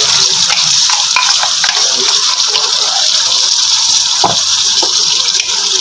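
Tomato paste sizzling in hot oil with frying onions in a steel karahi, a steady loud sizzle. Partway through, a wooden spoon stirs and scrapes it round the pan, with a few light knocks, the clearest about four seconds in.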